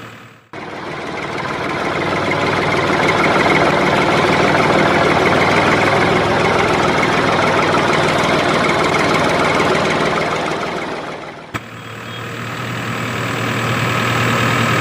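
An engine running steadily, in two stretches joined by an edit: it fades in just after the start, then dips with a short click about 11.5 seconds in before an engine with a steadier low hum fades back in.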